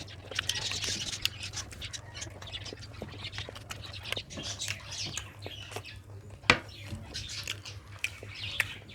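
A person eating rice and curry: close-up wet chewing and lip-smacking with many small clicks, one louder smack about six and a half seconds in, over a low steady hum.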